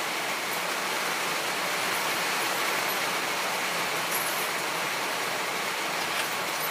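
Rain falling on the metal roof of a tin shed: a steady, pretty loud hiss.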